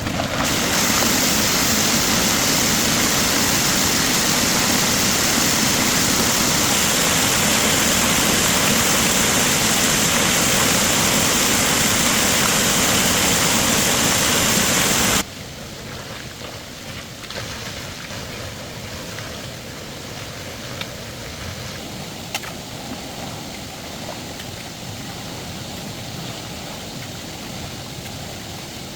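A loud, steady rush of spraying water that cuts off suddenly about halfway through, leaving a quieter hiss with a few faint clicks.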